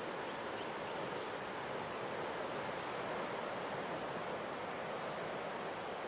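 Ocean waves washing in a steady, even hiss, with no single breaker or whale call standing out.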